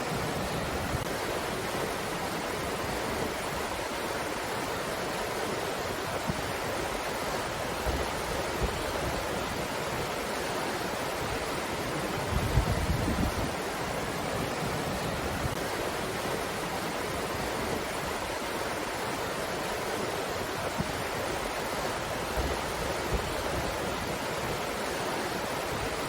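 Steady rushing of a breeze. A few short low gusts buffet the microphone, the strongest about halfway through.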